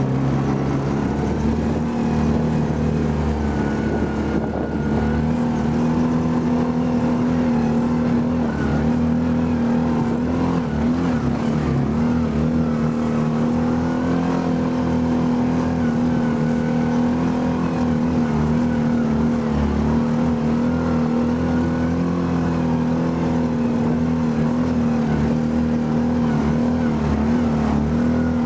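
Vmoto Scartt 11 UTV's 500 cc engine running at steady high revs under load on a steep hill climb. Its pitch rises about a second in, then holds nearly constant.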